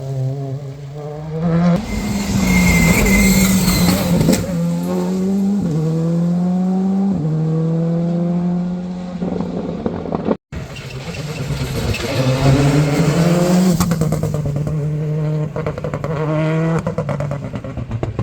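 Rally cars accelerating hard, engine pitch climbing in steps with each upshift. About ten seconds in, a sudden cut leads to a second car doing the same.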